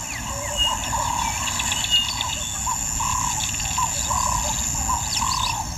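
Bush ambience: a bird gives short, repeated chirping calls about once or twice a second over a steady high-pitched insect drone.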